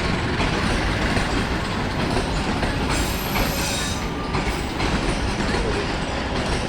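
A train passing close by: a steady rumble of wheels on the rails with a rhythmic clickety-clack, and a brief high squeal about three seconds in.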